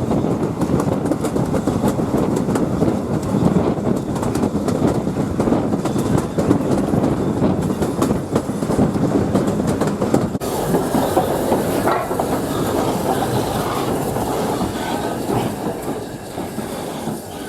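A train rolling past, its wheels clicking over the rail joints, the sound fading away over the last couple of seconds.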